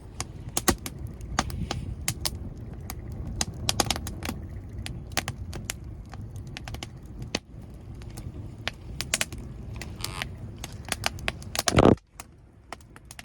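Wood fire crackling, with many irregular sharp snaps and pops over a steady low rumble. A louder rush of noise comes near the end, then the sound drops away abruptly.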